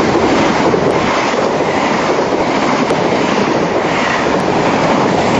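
Passenger train running past close alongside the platform: a steady loud rumble and rush of its coaches' wheels on the rails.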